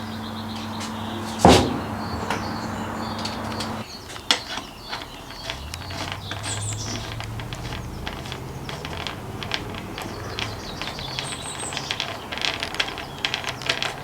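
Metal parts and hand tools clicking and ticking while components are fitted to a mountain bike's handlebar, with a sharp knock about a second and a half in. A low steady hum runs under the first four seconds.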